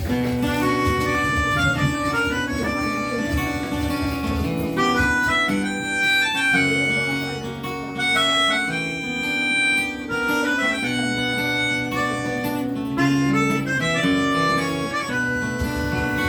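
Instrumental intro of a song played live: acoustic guitar with a sustained melody line held over it, changing notes every second or so.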